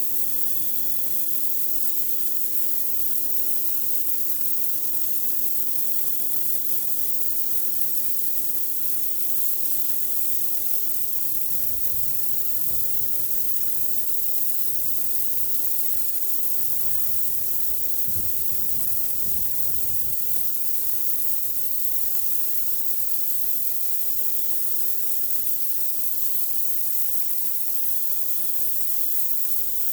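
Pressure washer blasting high-pressure water onto a concrete driveway: a steady loud hiss of spray, with the machine's motor humming steadily underneath.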